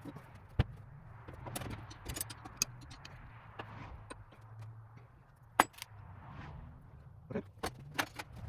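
Metal parts of an old drill press clinking and knocking as they are handled during disassembly, in scattered sharp clicks, with a low steady hum underneath.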